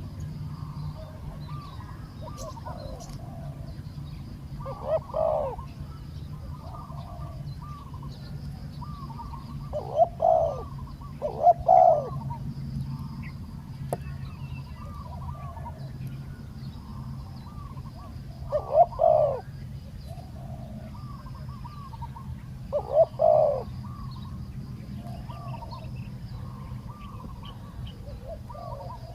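Spotted doves cooing. Loud, close coo phrases come about five times, near 5, 10, 11.5, 19 and 23 seconds in, with fainter coos from other doves in between.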